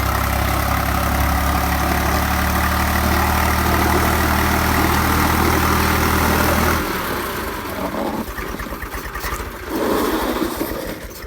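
Swaraj 834 XM tractor's three-cylinder diesel engine running at a steady, high throttle, then about seven seconds in the revs drop and it runs on slower with distinct firing beats. The tractor is straining with a stone-loaded trailer stuck in a mine.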